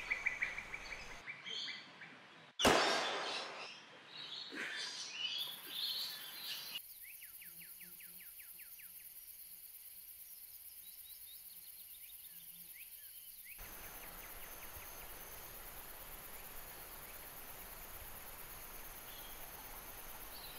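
Outdoor nature ambience: birds chirping and insects over a steady background hiss, broken by one sudden loud knock about two and a half seconds in. The background changes abruptly twice, as separate recordings are cut together.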